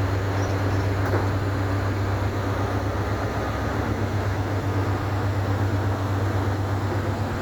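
Ferry's diesel engines running, a steady low drone with a constant hum.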